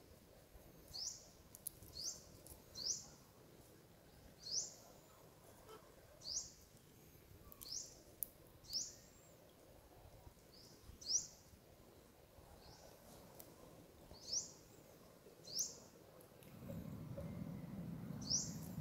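A bird calling repeatedly: short, high rising chirps every second or two over faint outdoor background. A low rumble comes in near the end.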